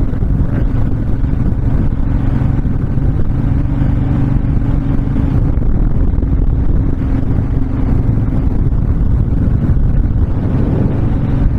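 Honda VTX1300's V-twin engine running steadily at cruising speed, with wind noise over the microphone.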